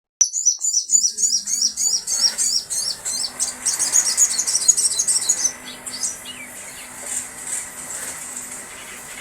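A songbird singing a fast run of repeated high chirping notes, loud for about five seconds, then going on more softly with scattered high notes.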